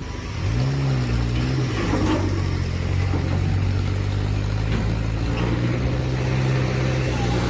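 Semi-truck engine running hard under load as the truck strains with its rear wheels spinning. Its pitch rises briefly in the first second, then holds steady.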